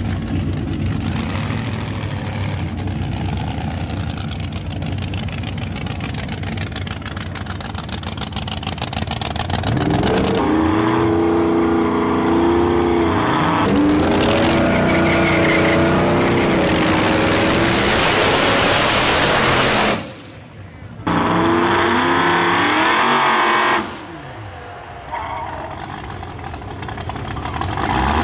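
Loud drag-race car engines idling and revving, their pitch rising and falling with repeated throttle blips. The sound drops out briefly about two-thirds of the way through.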